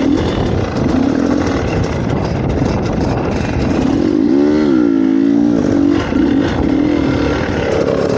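Dirt bike engine running, revving up and dropping back once about four to five seconds in.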